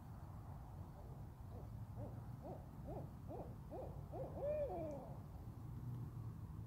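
Owls calling: a rapid run of short rising-and-falling hoots, about two a second, ending in a longer arched note and a falling wail, over a steady low rumble.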